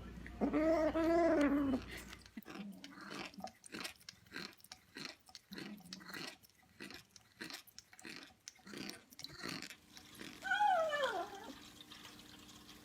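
A cat yowls in a long wavering call, then comes a run of quick, irregular soft clicks, and near the end the cat gives a single meow that falls in pitch.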